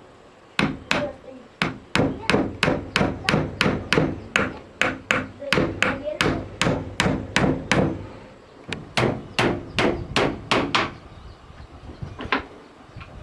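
Hammer blows in a quick, steady run of about three a second, with a short break about eight seconds in and a single last blow near the end.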